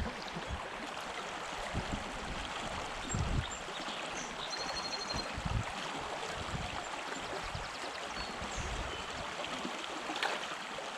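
Creek water running over rocks, a steady rushing hiss, with a few scattered low thumps.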